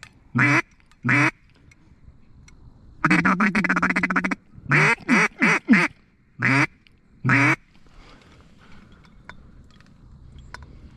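Hand-blown mallard hen duck call: two single quacks, a rapid chattering feed-call run of about a second and a half, then a string of quacks. It is used to work a mallard that is circling and looking at the decoys.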